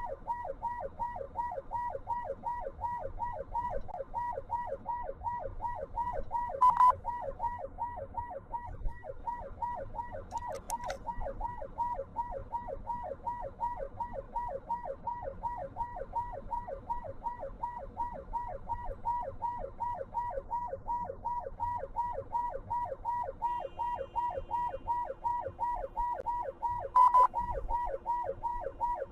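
Emergency vehicle siren in a fast yelp, its pitch sweeping up and down several times a second without a break. A sharp knock comes about seven seconds in and again near the end, and a steady tone joins in for the last few seconds.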